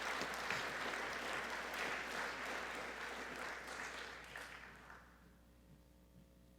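Audience applauding in a gym, the clapping fading out about five seconds in, leaving quiet room hum.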